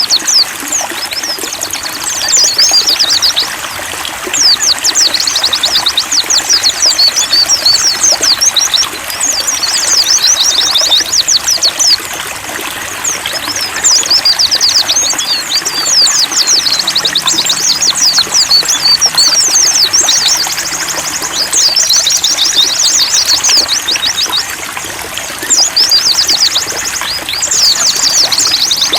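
White-eyes (pleci) singing in fast, high twittering phrases a few seconds long with short gaps between them, over a steady trickle of running water.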